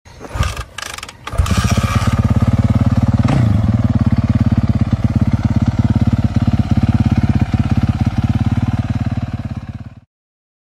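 Motocross dirt bike engine: a few sharp clacks, then it catches about a second and a half in and idles with a fast, even beat. It cuts off suddenly near the end.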